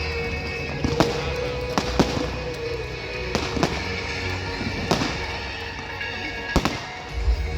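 Fireworks display: a string of sharp bangs and cracks at irregular intervals, roughly one a second, over a steady background of music.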